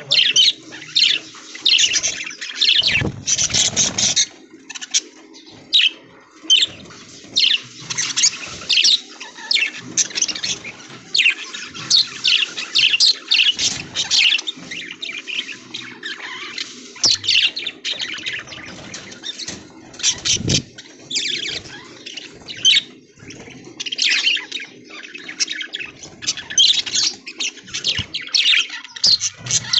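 A flock of budgerigars chirping and chattering continuously, with a loud rustle of wings about three seconds in and a brief thump about twenty seconds in.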